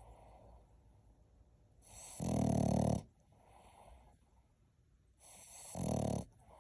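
Boston Terrier puppy snoring in its sleep. There are two loud snores, one about two seconds in and one near the end. Each has a breathy lead-in that swells into a snore lasting about a second, with soft breathing between them.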